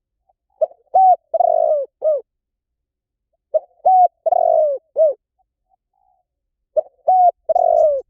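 Spotted dove cooing: three phrases about three seconds apart, each of four low coos. The third coo in each phrase is the longest and drops in pitch.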